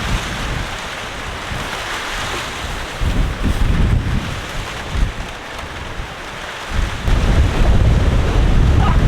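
Strong gale-force wind gusting and buffeting the microphone, with a steady rushing hiss and low rumbles that grow heavier about seven seconds in.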